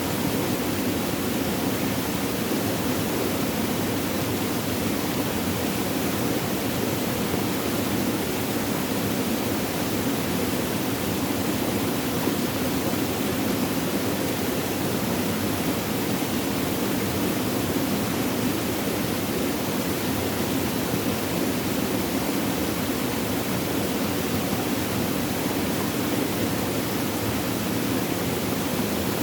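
Flowing water, a steady, even rush with no breaks or changes.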